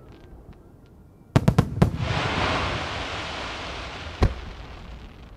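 Large aerial firework shells bursting in a rapid volley: four loud booms in quick succession about a second and a half in, followed by a long fading rumble, then one more single boom a little after four seconds. Faint crackling comes before the first boom.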